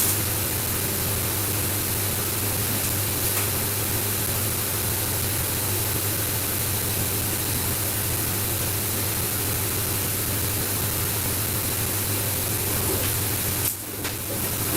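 Steady hiss with a low hum underneath, dipping briefly about a second before the end.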